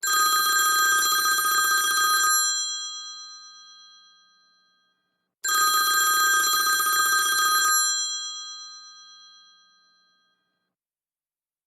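iPhone ringtone imitating an old-fashioned telephone bell: two long rattling rings, each about two seconds, with the bell tones ringing on and fading after each. The second ring comes about three seconds after the first one stops.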